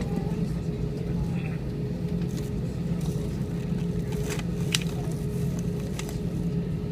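Airbus A320's jet engines running with a steady rumble and a steady hum, with scattered clicks and crackles over it.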